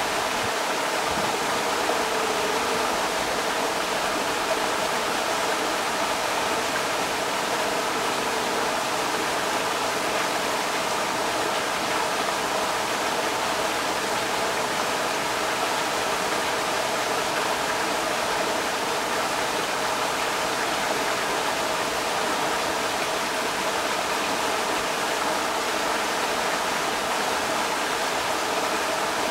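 Rushing creek water, a steady unbroken rush.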